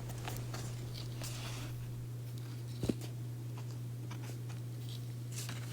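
Room tone in a pause of speech: a steady low hum with a few faint clicks, and one brief short sound about three seconds in.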